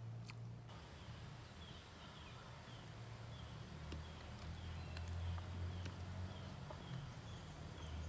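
Insects, crickets or cicadas, keep up a steady high drone, while a bird repeats a short falling chirp about twice a second. A few faint clicks and a low hum sit underneath.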